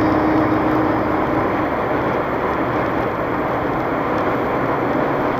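Steady road and tyre noise inside a moving car's cabin, heard at highway speed.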